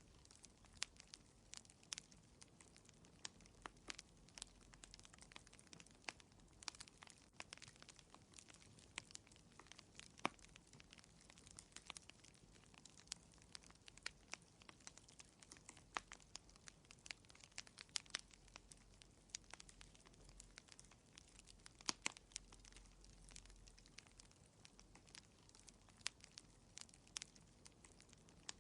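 Wood fire crackling in a fireplace: quiet, irregular snaps and pops, several a second, over a faint low hiss.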